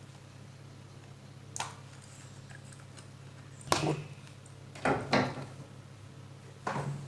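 Five short clicks and scrapes from hands working on the parts of an LED bulb, over a steady low hum.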